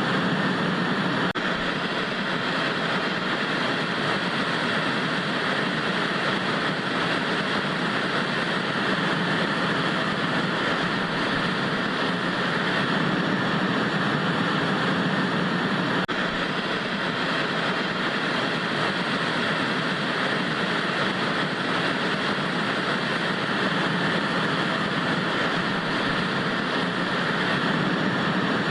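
Analog TV static: a steady, even hiss of white noise.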